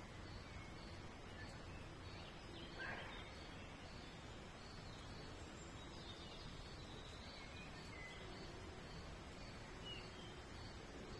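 Faint outdoor nature ambience. A high, thin chirp repeats steadily about twice a second, and a few scattered bird chirps come over a background hiss, with one falling call about three seconds in.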